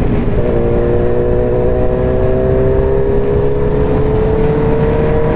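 Loud 2003 Yamaha R1 inline-four engine with an aftermarket exhaust pulling in gear, its revs climbing slowly and steadily from about half a second in.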